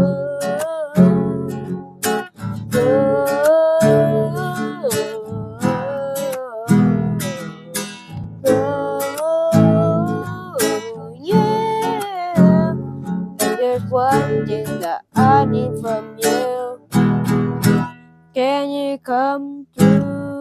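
Acoustic guitar strumming chords in a steady rhythm, with a gliding melodic line over it, as in the closing bars of a song.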